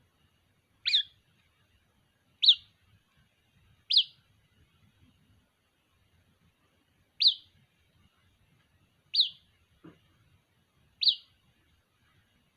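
White-breasted waterhen chick calling for its mother: six short, sharp chirps, each a quick downward-sweeping note, spaced a second and a half to three seconds apart.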